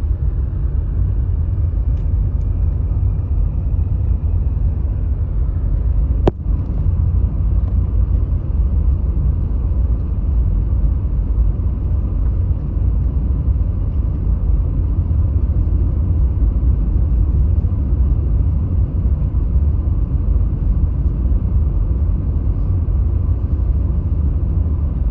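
Car driving slowly, heard from inside the cabin: a steady low rumble of engine and tyres on the road. A single sharp click comes about six seconds in.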